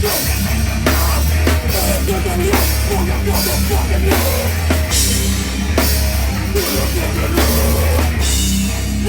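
Live heavy metal band playing loud, with a heavy, steady low end and pounding drum kit. Cymbal-crash accents come a little under once a second.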